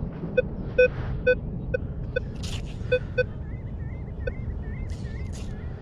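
Vanquish 440 metal detector giving short electronic beeps at irregular intervals as it is swept over targets in the sand, over a steady low rumble of surf and wind. A faint warbling whistle comes in briefly near the middle.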